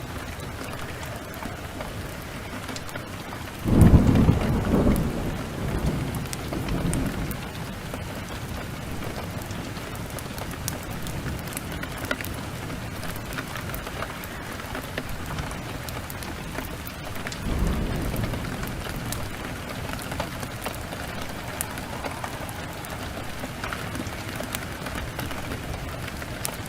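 Heavy rain falling steadily, with a loud thunderclap about four seconds in that rolls on for a few seconds, and a second, softer rumble of thunder past the middle.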